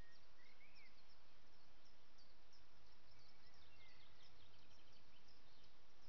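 Small songbirds chirping and twittering, many short high calls and a few sliding notes, over a steady outdoor background hiss.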